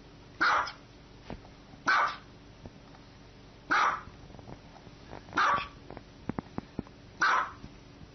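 A dog barking single barks, five in all, spaced evenly about every one and a half to two seconds.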